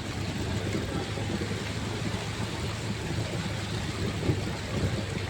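Motorcycle riding in the rain: a steady rushing noise of rain and wet road, with a low, steady engine hum underneath.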